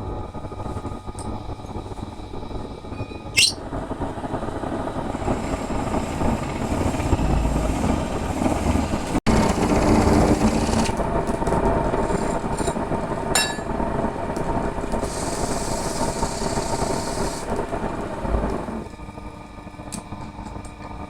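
Wood lathe running steadily in a workshop, with stretches of hiss from a tool cutting the spinning wood and a sharp knock about three seconds in.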